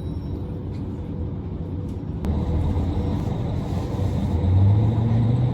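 Diesel railcar engine rumbling, with a click and a step up in loudness a little over two seconds in, then a low drone rising in pitch near the end as the engine revs up.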